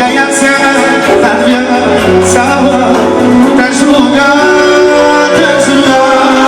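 Live band music with a singing voice and instruments, loud and steady, with cymbal-like strokes.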